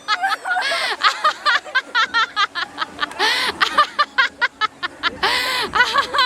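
A woman laughing hard in quick high-pitched bursts, with gasping breaths in between.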